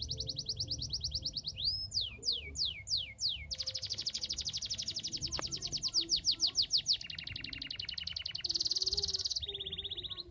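Domestic canary singing in full, continuous song: fast high trills, then a run of about five slurred notes sweeping downward, then another rapid trill that drops to a lower trill and ends in a buzzy high passage.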